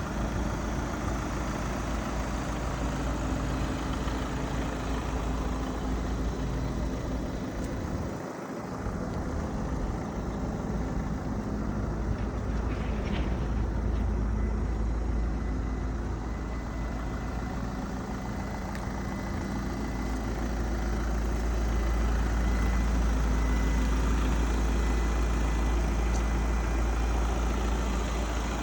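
Steady vehicle engine noise under a heavy low rumble of wind on the microphone, with a brief dip about eight seconds in.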